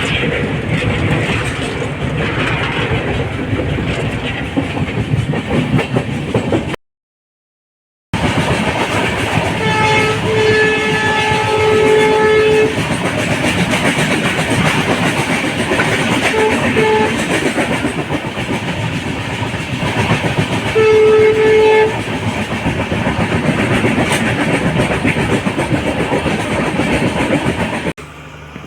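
Passenger train running at speed, steady rail and wheel noise heard from aboard a coach. A train horn sounds three times: a long blast about a third of the way in, a short one soon after, and another about three quarters through. The sound cuts out completely for about a second a quarter of the way in.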